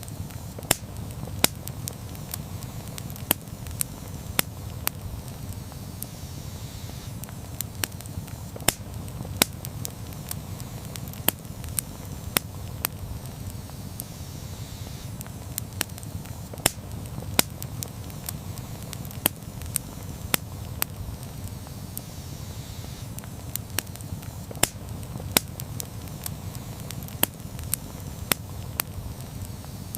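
Wood campfire burning, with sharp irregular crackles and pops about once or twice a second over a steady low rumble of flame.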